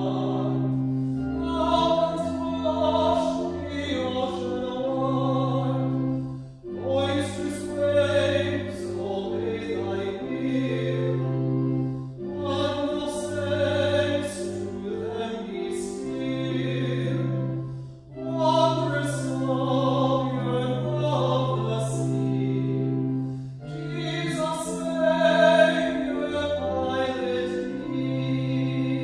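A sung hymn or anthem in a classical style, with sustained accompaniment, in phrases of about six seconds each with a short break between them.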